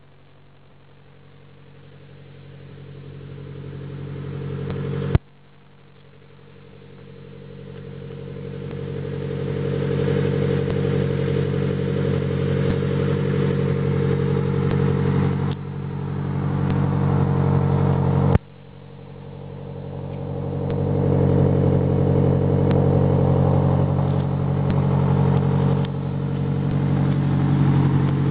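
Nissan Silvia S13's tuned SR20 inline-four engine idling steadily at an even pitch. It grows gradually louder, drops off sharply about 5 seconds in and again about 18 seconds in, then builds up again.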